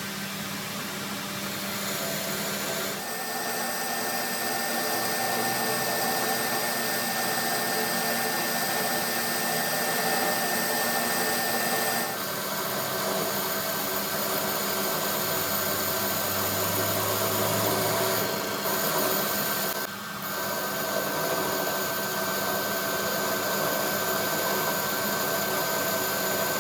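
Electric power tool or workshop machine running steadily under load. Its tone shifts a few times, with a brief dip about twenty seconds in.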